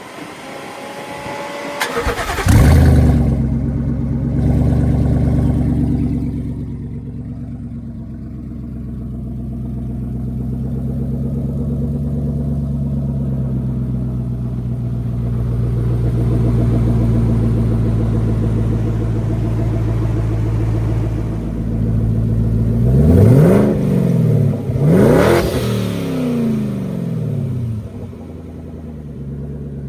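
Twin-turbocharged 5.0 V8 of a 2020 Ford F-150 cranked by the starter and catching about two seconds in with a loud flare, then settling from a high idle to a steady idle. Late on it is revved twice, about two seconds apart, each rev rising and dropping quickly back to idle.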